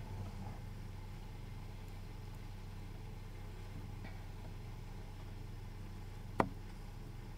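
McNeilus garbage truck's diesel engine running steadily at a low idle, heard faintly, with one sharp knock about six seconds in.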